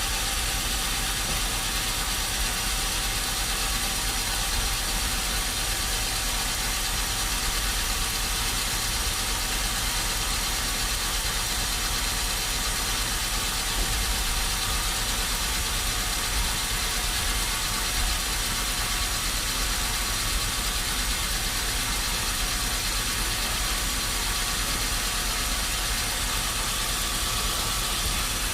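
Sawmill machinery's engine running steadily, a constant hum with an even hiss over it; the level never changes and no separate cuts or knocks stand out.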